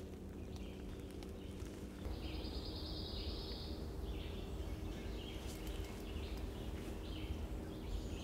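Woodland birds calling: scattered chirps and a trill lasting about a second and a half, starting about two seconds in, over a low steady rumble.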